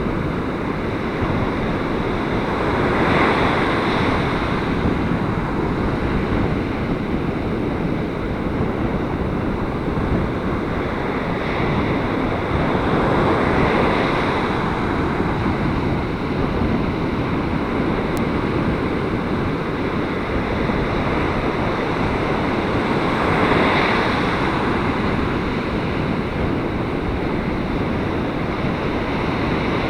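Surf breaking and washing up the beach in a gale, with strong wind buffeting the microphone; the waves swell louder about every ten seconds over a constant rush.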